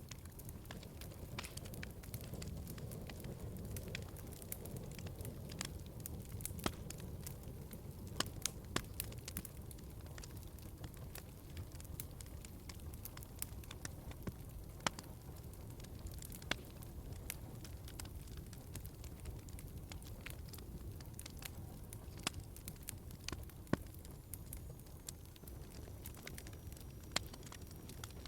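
Wood fire burning in a fireplace: a low, steady rumble of flames with sharp pops and crackles at irregular intervals.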